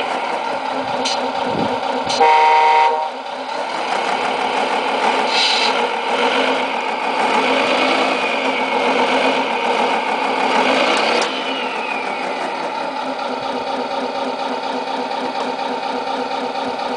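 Electronic sound unit of a Tamiya Scania R620 radio-controlled truck playing a simulated diesel truck engine through a small speaker, with one blast of the truck horn about two seconds in lasting under a second. The engine sound varies and eases off a little after about eleven seconds.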